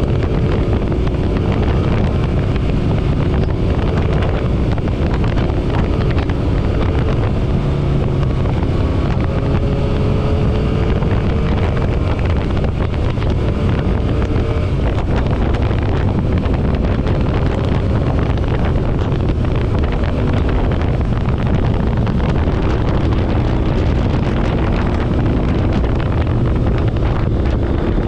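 Motorcycle engine running at a steady cruise, with heavy wind rushing over the microphone.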